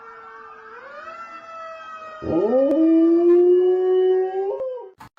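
Dog howling: a long howl comes in loud about two seconds in, scoops upward at its start, holds steady for over two seconds and then fades. A fainter held tone runs beneath it from the start.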